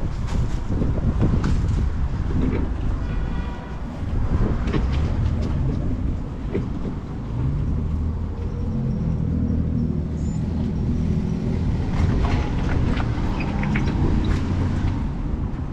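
A motor vehicle's engine running with a low rumble, joined by scattered knocks and clatter.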